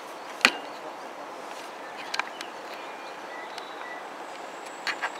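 Distant diesel multiple unit, taken for a Class 150, approaching: a faint steady rumble under the outdoor ambience. A sharp knock sounds about half a second in, with a few small clicks and short high chirps later.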